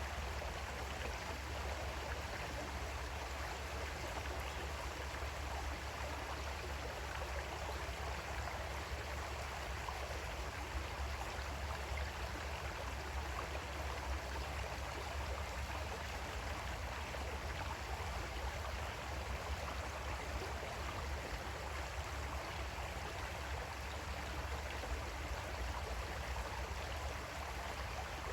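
Creek water flowing and babbling over rocks in a steady, unbroken rush, with no other sound.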